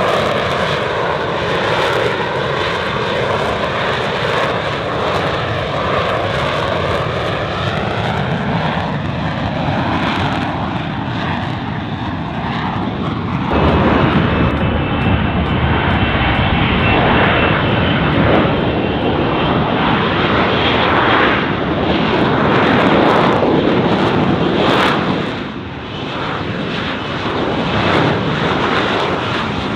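F-35B Lightning II's jet engine running loud and steady, with a whooshing that sweeps slowly up and down for the first dozen seconds. About 13 seconds in it suddenly gets louder and fuller and stays that way, dipping briefly a few seconds before the end.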